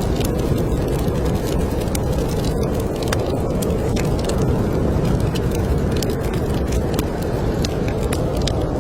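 Wood fire crackling with frequent sharp pops, over a steady low rush of snowstorm wind.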